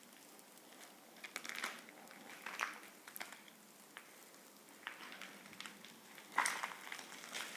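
Irregular crunching steps on debris and grit in a small, echoing concrete room, a few crunches about a second apart with a louder cluster near the end.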